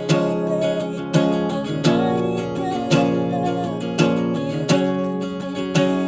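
Acoustic guitar strumming sustained chords in a steady rhythm, a strong stroke about once a second.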